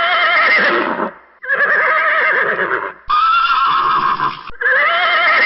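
Horse whinnying: four calls of about a second each, high and wavering in pitch, played back to back.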